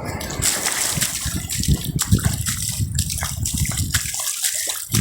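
Stream water rushing and splashing as it runs down across the beach, a steady noisy gush.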